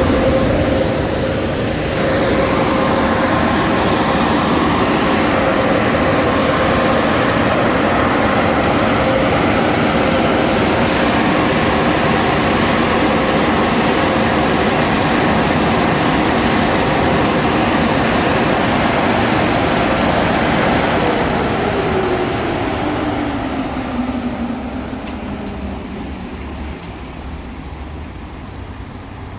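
Touch-free car wash dryer blowers running with a loud steady rush of air and a hum, then shutting off about two-thirds of the way through and spinning down with a falling whine.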